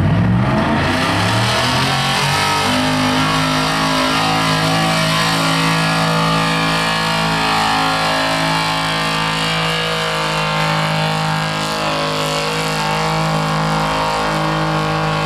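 Diesel pickup truck's engine at full throttle pulling a weight sled. It revs up over the first two seconds, then holds a high, steady pitch under heavy load for the length of the pull.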